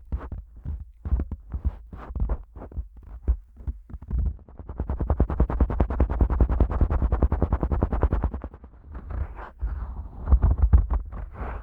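Fingers tapping and rubbing on the silicone ears of a Neumann KU100 dummy-head microphone, giving close, bassy thuds and scrapes. The taps come a few at a time, then in a fast run from about four to eight and a half seconds in, then separately again.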